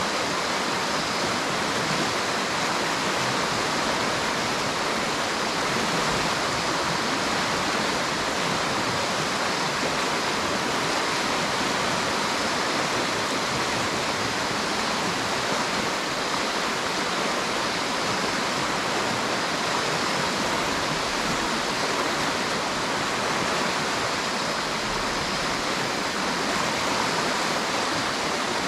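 River water rushing steadily, an unbroken even hiss.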